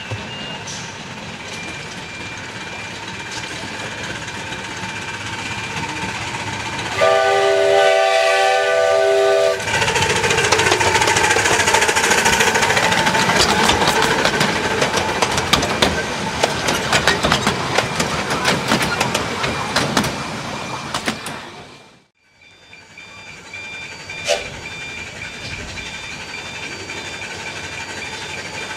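A miniature passenger train approaches. About seven seconds in its locomotive sounds a loud chord-like whistle for two or three seconds, then the train rattles past close by with rapid clicking of wheels over the rail joints. The sound falls away suddenly a little over twenty seconds in.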